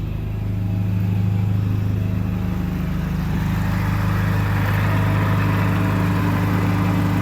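Swapped-in 1.6-litre four-cylinder engine of a Mini Cooper idling steadily.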